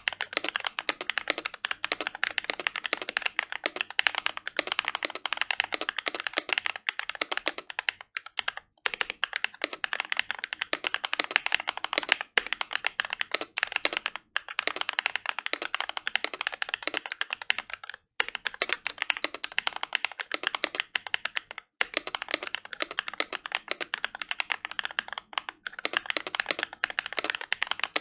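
Fast continuous typing on a Glorious GMMK Pro mechanical keyboard with an aluminium plate and no foam, fitted with lubed, paper-modded Feker Holy Panda tactile switches and PBT Cherry-profile keycaps. Rapid clacking keystrokes with a few brief pauses.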